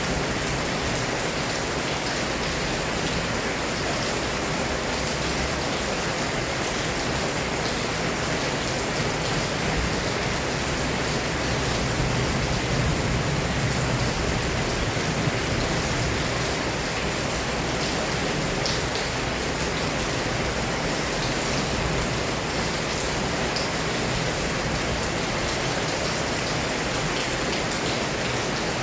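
Heavy rain pouring steadily, a dense, even hiss that swells slightly about twelve seconds in.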